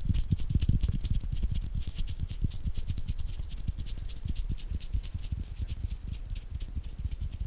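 Bare hands moving close to a microphone: a quick, irregular run of soft thumps and swishing rubs from palms and fingers, many strokes a second.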